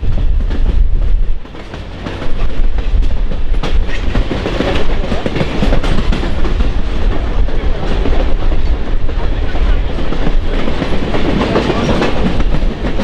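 Train running along the track, its wheels clacking over the rail joints; the sound dips briefly about a second and a half in, then carries on loud and steady.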